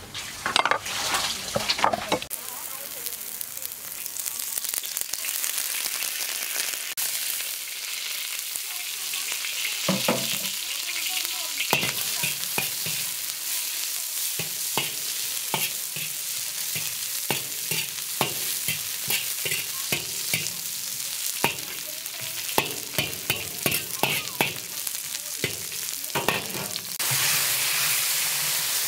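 A few cleaver chops on a wooden cutting board, then garlic and lemongrass sizzling in oil in a steel wok, stirred with a metal ladle that clinks and scrapes against the pan. The sizzle gets louder near the end.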